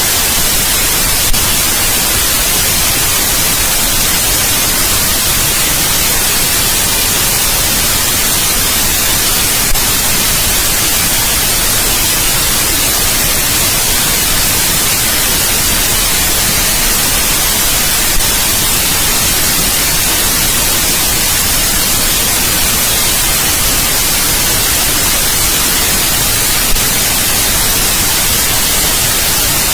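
Steady white noise, an even hiss strongest in the high end, with four brief clicks about eight and a half seconds apart.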